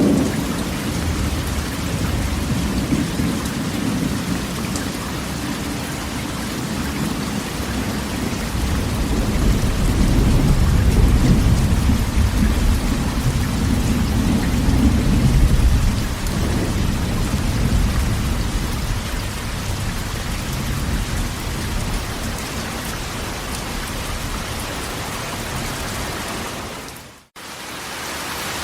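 Steady rain falling on a corrugated tin roof, with a long rolling rumble of thunder that builds to its loudest around the middle and then fades. The sound drops out for an instant near the end.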